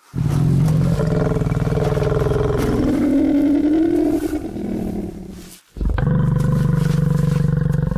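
Lions growling in a face-off: one long, low growl lasting about five and a half seconds, then after a brief break a second growl that runs to the end.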